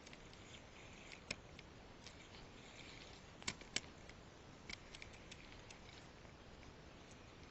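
Quiet background with a few scattered sharp clicks, the loudest two close together about three and a half seconds in.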